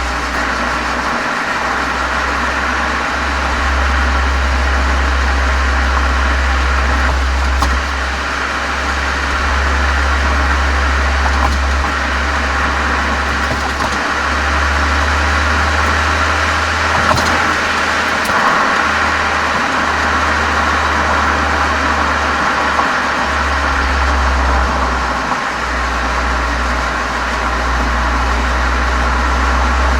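Volkswagen Golf 7 GTI's turbocharged 2.0-litre four-cylinder running steadily through an aftermarket Cox muffler and chamber, heard from outside at the rear: a steady, deep exhaust drone that wavers a little in strength.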